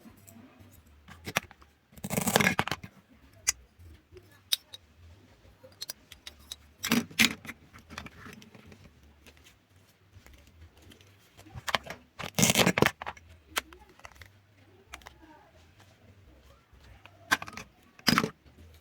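Food being cut by hand in short rasping cuts, about one every five seconds, with two close together near the end and small clicks and taps in between.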